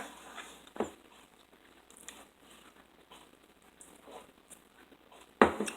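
Faint scattered clicks and rustles, with a short sharp sound about a second in and a louder brief rush of noise near the end.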